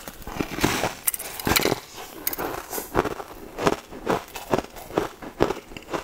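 A bite into a crisp purple snack, then crunchy chewing, close-miked, about two crunches a second.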